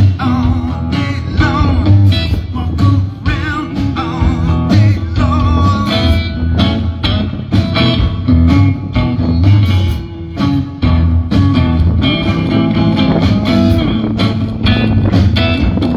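A live band playing a bluesy rock number: electric guitar with bends over bass guitar and a steady drum beat.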